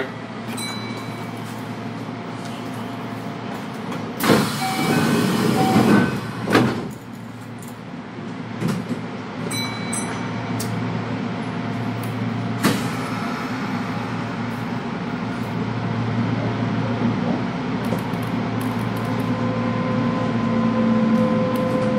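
Interior running noise of a Kintetsu electric train. About four seconds in there is a loud rush of air lasting about two seconds. Then the steady rumble of the car builds, with motor tones rising in pitch near the end as the train gathers speed.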